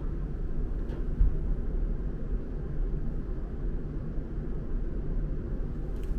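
Steady low rumble of a Shinkansen N700S car's running noise heard from inside the cabin, with one low thump about a second in.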